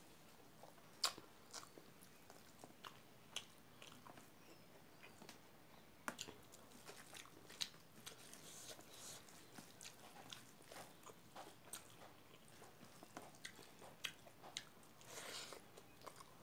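Close-miked eating sounds from a person chewing a mouthful of rice: soft, irregular chewing with wet mouth clicks and lip smacks, the sharpest click about a second in.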